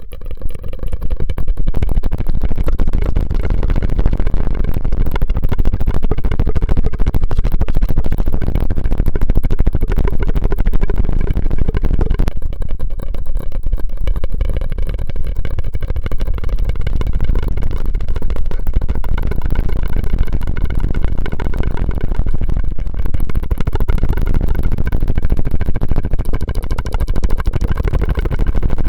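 Close-miked ASMR mouth and straw sounds: a loud, dense, continuous stream of crackles and hiss that changes character about twelve seconds in.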